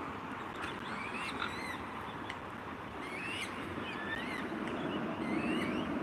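Small birds chirping: many short, high, sliding peeps scattered throughout, over a steady low background rumble.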